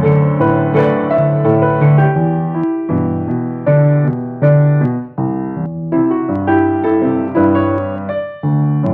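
Piano playing slow chords and a melody, each note struck and left to ring, with no voice.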